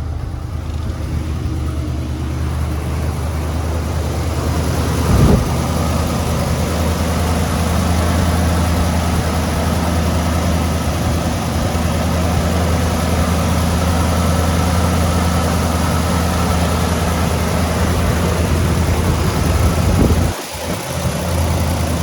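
Ford 460 cubic-inch big-block V8 idling steadily on a cold start, having sat for a couple of days. A brief sharp sound about five seconds in, and a short louder moment with a sudden drop about twenty seconds in.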